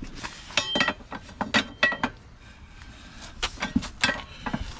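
Metal clanks and clinks with a short ringing after each, several in quick groups: a manual tire changer's bar and duck-head tool working a tire bead off a wheel rim.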